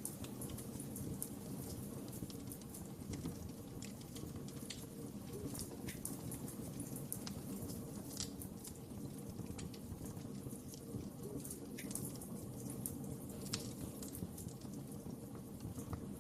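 Wood fire crackling: irregular sharp pops and snaps, several a second at most, over a steady low rumble of burning flames.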